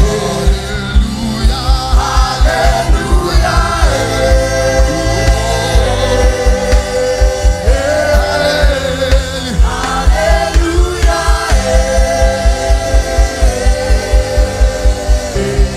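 Gospel worship music: voices singing over long held chords, with a fast, steady low beat.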